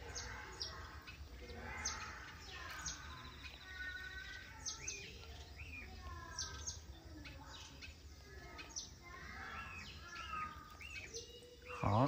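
Small birds chirping and calling: many short high chirps and sweeps, a brief rapid trill about three seconds in, and lower warbled phrases, all faint over a low steady hum.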